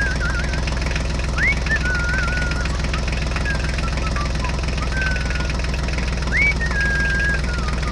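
Tractor engine running steadily with a rapid chugging, with short high chirping whistles over it several times.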